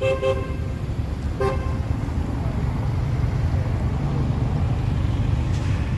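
A vehicle horn gives two short toots about a second and a half apart, over a steady low rumble of traffic.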